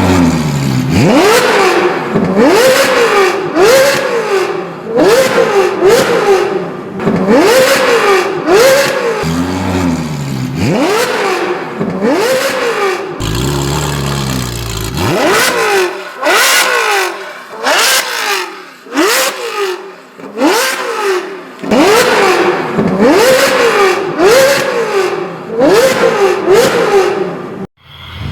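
Ferrari 458 Speciale's naturally aspirated V8 revved over and over in quick throttle blips through a PowerCraft variable exhaust, each blip rising sharply in pitch and falling back. It settles briefly into a lower, steadier note about halfway through.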